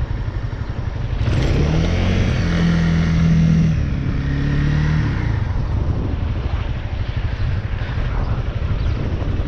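Motorcycle engine pulling under acceleration, its pitch rising about a second in and dropping near four seconds in, over steady wind rumble on the rider's microphone.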